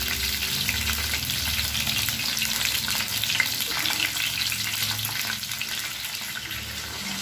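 Whole slit brinjals frying in hot oil in a pan: a steady sizzle with fine crackling.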